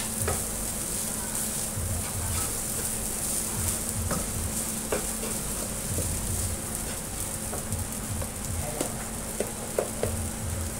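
Fried rice sizzling in a hot pan while it is stirred, with a steady hiss and scattered sharp knocks of the utensil against the pan, the loudest near the end.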